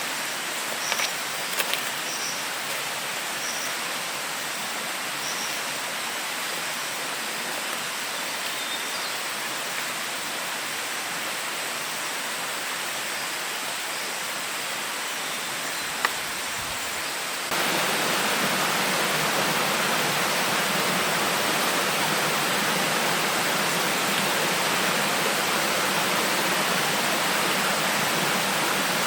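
Steady rushing of a forest stream, which steps up abruptly louder about two-thirds of the way through.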